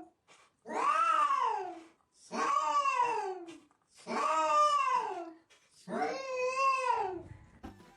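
A cat yowling: four long, drawn-out meows about every second and a half to two seconds, each rising then falling in pitch. Faint music comes in near the end.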